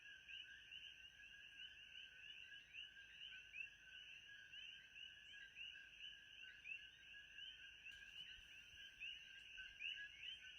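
Faint, steady chorus of small high chirping calls, several a second and overlapping, typical of a night-time frog or insect ambience.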